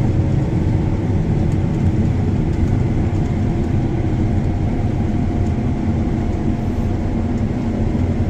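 John Deere S680 combine running steadily while harvesting soybeans, a continuous low drone of engine and threshing machinery with a few faint steady tones.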